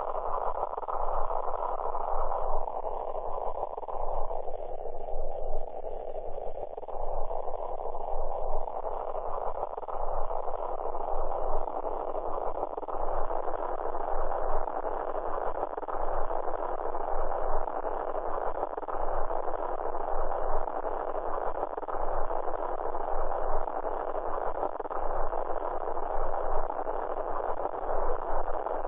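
A steady, muffled hiss of noise confined to the middle range, like amplified recording static. It narrows for a few seconds near the start, then widens again, with no distinct thuds.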